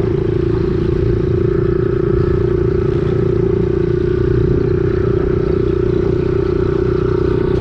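Kawasaki KLX110 pit bike's small four-stroke single-cylinder engine running at a steady speed, a constant drone with no revving up or down.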